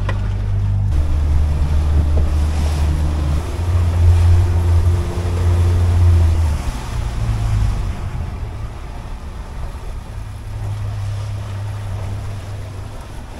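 Boat's outboard engine running under way, with wind on the microphone and water rushing past the hull. The engine note shifts pitch a few times, then settles to a lower, quieter run after about eight seconds.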